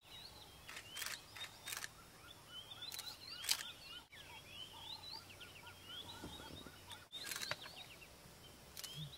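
Wild birds chirping and calling in the bush, many short rising chirps overlapping throughout, with a few sharp clicks standing out.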